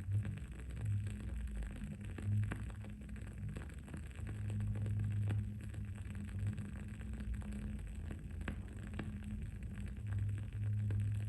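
Wood-wick candle crackling, with scattered sharp pops over a low background hum that swells and fades every few seconds.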